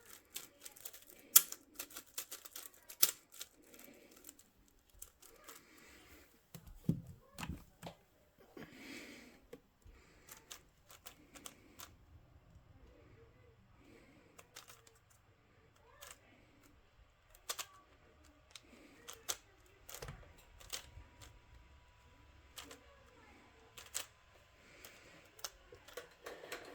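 Plastic puzzle cube being turned by hand: irregular sharp clicks of the layers snapping round, in quick runs early on and more spaced out later.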